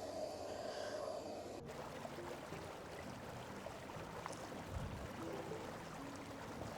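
Steady rushing of a river flowing. The sound changes abruptly about a second and a half in, at an edit.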